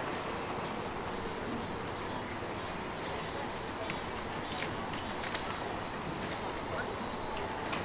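Steady outdoor background noise with faint distant voices and a few short, sharp knocks.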